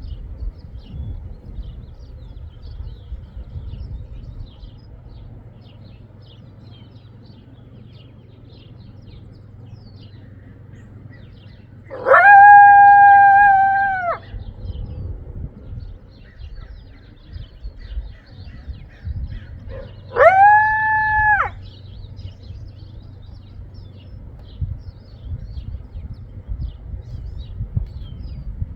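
Coyote howling twice: each howl sweeps up quickly to one steady held note and drops off at the end, the first lasting about two seconds, the second, about eight seconds later, a little shorter. Faint bird chirps and a low steady hum run underneath.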